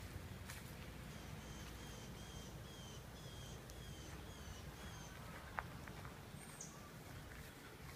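A bird singing a faint run of about nine short, slightly falling notes, a little over two a second, over a steady low rumble. A single sharp click about five and a half seconds in.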